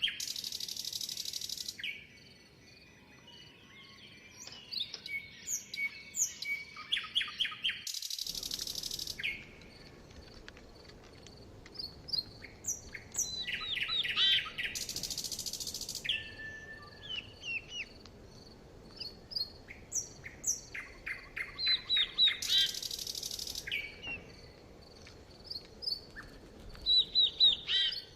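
Several songbirds chirping and trilling in quick, high phrases. A loud hiss, nearly two seconds long, comes back about every seven seconds, four times.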